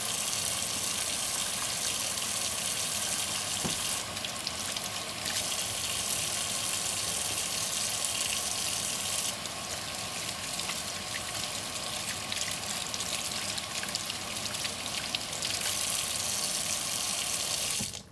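Water from a kitchen tap running steadily into a sink. Its hiss thins twice, then the tap is shut off at the very end.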